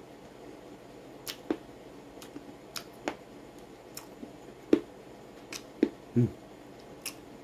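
A person chewing crisp raw guava: scattered sharp crunches and wet mouth clicks at uneven intervals, with a short low hum about six seconds in.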